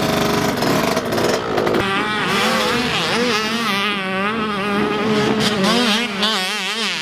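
Motocross bike engines: a close engine's rapid firing at first, then engine pitch rising and falling over and over as the bikes rev through the gears.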